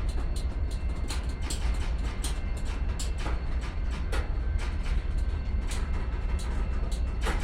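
BNSF freight train rolling slowly past at close range: a steady low rumble with irregular sharp clicks and clanks from the wheels and cars, one of the strongest near the end.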